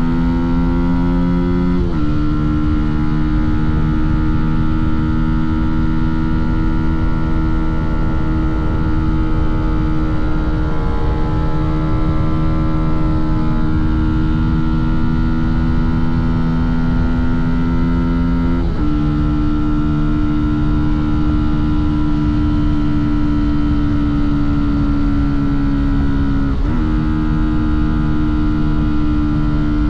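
Fantic Caballero 125's single-cylinder four-stroke engine and exhaust under way at steady cruising revs. Its pitch steps abruptly about two seconds in, again about two-thirds of the way through and near the end, as at gear changes. Low road and wind rumble runs underneath.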